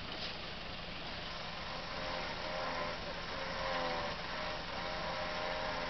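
Off-road vehicle engine running, with a wavering whine that comes in about two seconds in and grows slightly louder.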